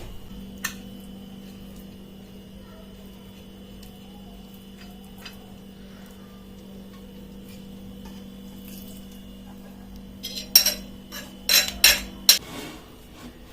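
Air fryer running with a steady low hum. A few seconds before the end come a quick series of sharp metallic clinks and clatters of kitchenware, and the hum stops.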